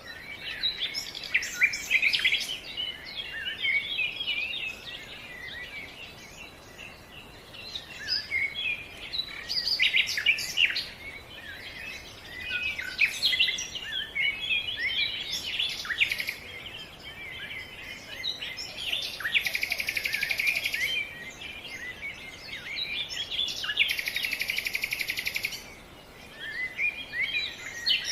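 Birds chirping and singing in a dense run of short calls and whistles, with two rapid buzzy trills of about two seconds each in the second half.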